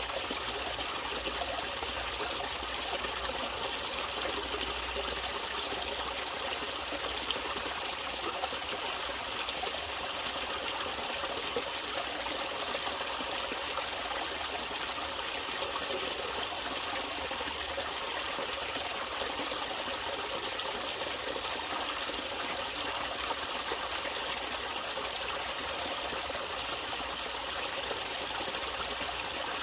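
Natural running water trickling steadily, an even, unbroken flow.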